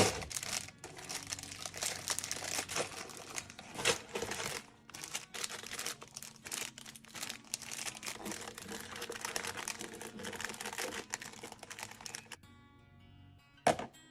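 Packaging crinkling and rustling with many small crackles and clicks as items are handled, with soft music underneath; the crinkling stops about a second and a half before the end, leaving the music.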